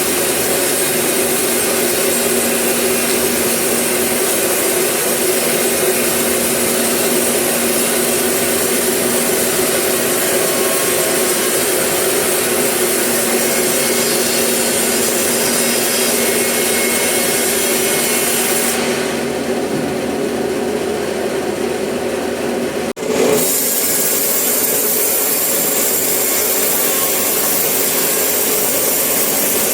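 Sawmill saw cutting eucalyptus wood: a steady, loud run of blade through timber with a hum of the machine under it. About two-thirds of the way through the hiss of the cut drops away for a few seconds, the sound breaks off for an instant, and then the cutting carries on as before.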